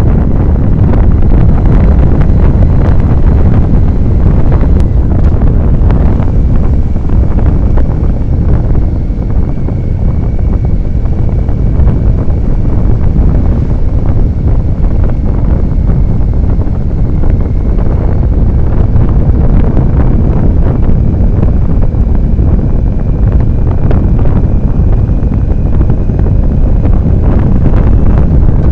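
Wind buffeting the microphone of a camera on a moving motorcycle: a loud, steady, low rushing noise with no breaks.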